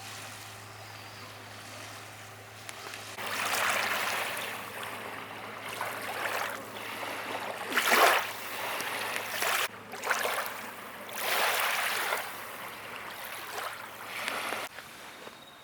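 Small lake waves washing onto the shore in irregular swells, one every second or two, over a steady low hum.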